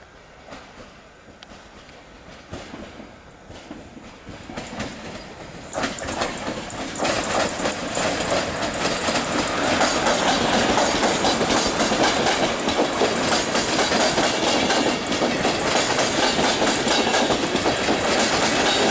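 Passenger train hauled by an EU160 Griffin electric locomotive passing close by, growing louder as it nears. From about six seconds in, the coaches' wheels clatter steadily over the rails.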